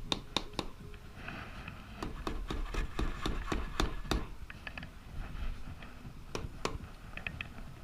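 Gentle hammer taps on the crankcase of a 1992 Yamaha Seca II XJ600 engine: a string of light, irregular knocks in clusters with short pauses, meant to coax the case apart.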